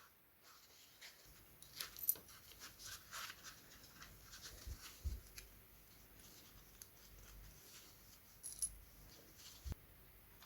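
Light, scattered clicks and clinks of small parts and hand tools being handled on a workbench, the sharpest about two seconds in.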